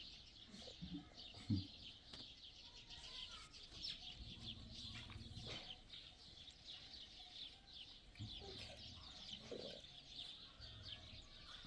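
A faint, continuous chorus of many birds chirping in quick, short high notes, with a few low clucks among them.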